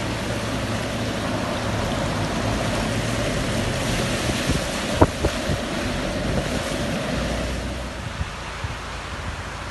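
Steady rushing noise of heavy rain and running floodwater in a street, with one sharp knock about five seconds in; it eases slightly near the end.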